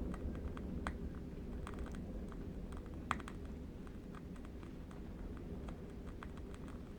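Ambient track of a steady low wind rumble with faint, irregular crackling clicks from a burning candle wick, one sharper crack about three seconds in.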